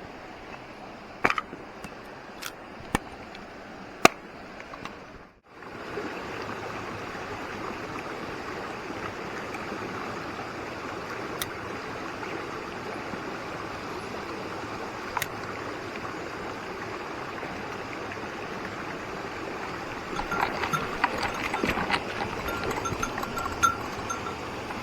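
Mountain stream water rushing steadily. A few sharp clicks in the first few seconds, and light metallic clinking near the end.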